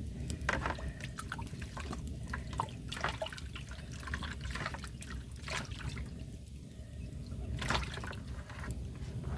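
Water dripping and splashing in irregular drops over a low, steady rumble.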